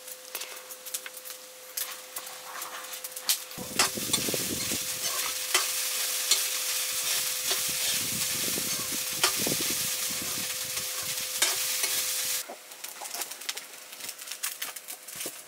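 Food sizzling in a black iron wok while a ladle stirs and scrapes it, with a loud stretch of frying lasting about nine seconds in the middle and lighter clicks and scrapes on either side.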